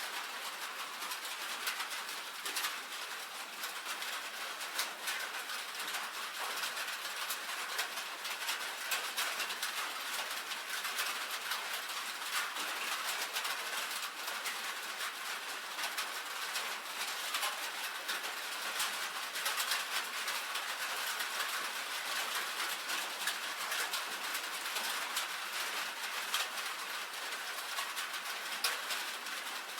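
Rain pattering on a tin roof: a dense, steady stream of small drop ticks on the metal.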